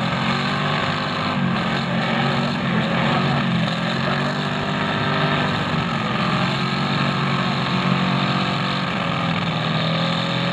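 Several demolition derby car engines running hard under load, their pitch rising and falling as the cars push against each other and spin their wheels in the mud.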